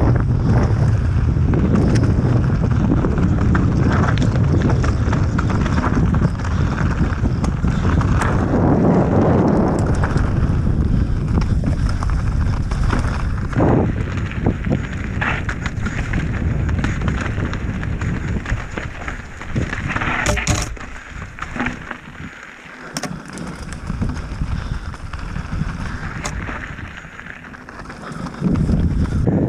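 Mountain bike being ridden over a rough trail: tyre rumble with the rattle and clatter of the bike over rocks and roots, and wind buffeting the microphone. It eases off for a while in the last third, then gets louder again near the end.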